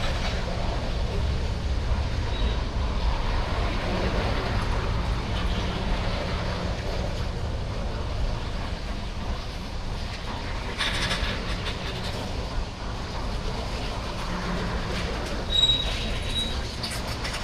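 CSX freight train rolling by: a steady rumble and rattle of wheels on rail, with a brief high wheel squeal near the end.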